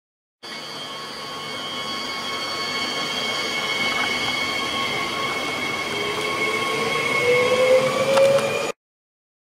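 Trains rolling past, a freight train of tank wagons among them, with wheel squeal sounding as several steady high-pitched tones over the rolling noise. A lower squeal rises in pitch and grows louder near the end. The sound begins abruptly about half a second in and cuts off suddenly near the end.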